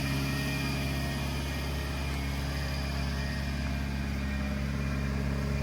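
1997 Subaru Sambar kei truck's small four-cylinder engine running steadily at an even speed, with no revving.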